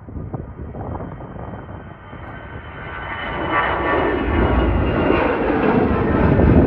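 Airbus A320 jet engines coming closer: a steady jet roar that grows louder from about two seconds in, with a thin high whine over it.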